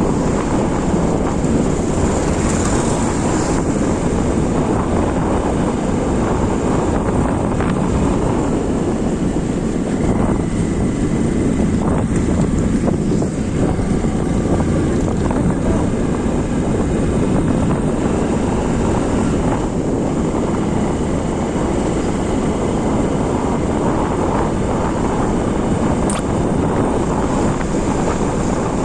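Steady motorcycle riding noise at speed: wind rushing over the microphone mixed with engine and road noise.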